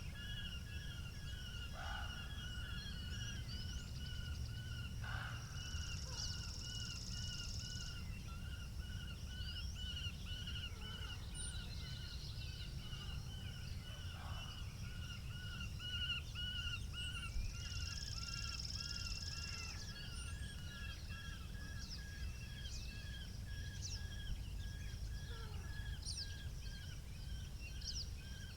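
Wind rumbling on the microphone, with birds chirping continuously in rapid repeated notes and two high-pitched trills, one about six seconds in and one about eighteen seconds in.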